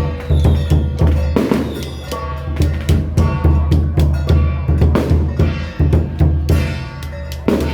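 Drum music: a fast, steady drumbeat pulsing about four times a second under steady pitched notes, with cymbal-like crashes about a second and a half in and again near the end.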